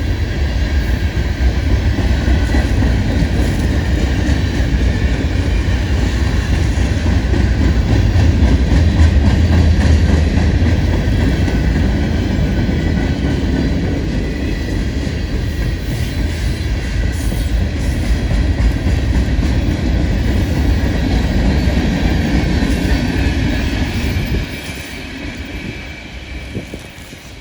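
Freight cars of a long manifest train rolling past, a loud steady rumble with wheels clicking over the rail joints and a faint high wheel squeal. The noise drops off sharply about 24 seconds in.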